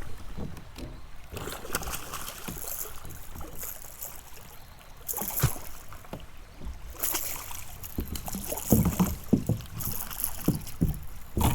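Water splashing in bursts and a few dull knocks against a kayak as a smallmouth bass is fought and brought aboard.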